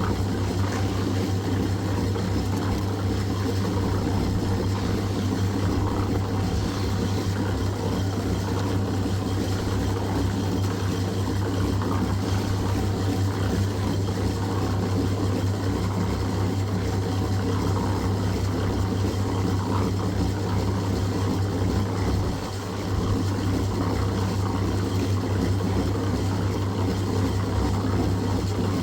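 An engine running steadily, with a constant low hum; it dips briefly about three-quarters of the way through.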